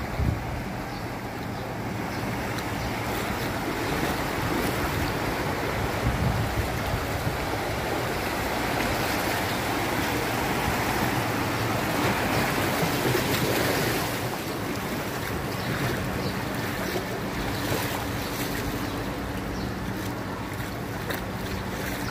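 Continuous rushing, splashing floodwater noise, swelling louder for a few seconds in the middle, with a faint steady low hum underneath.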